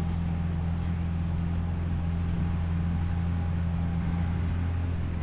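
Motorboat engine running steadily under way, holding an even pitch and level.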